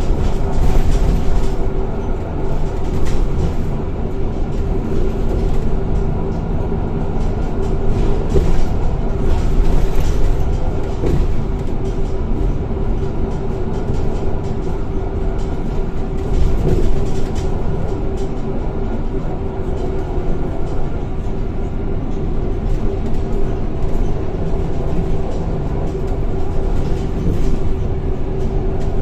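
Scania K230 single-decker bus heard from on board while driving, its engine and ZF automatic gearbox running steadily under a constant whine, with low road rumble and occasional body rattles and knocks.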